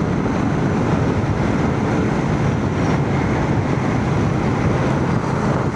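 Steady wind rush and engine noise from a Royal Enfield Shotgun 650 motorcycle at riding speed, heard from a microphone inside a full-face helmet, with the gusting wind the loudest part.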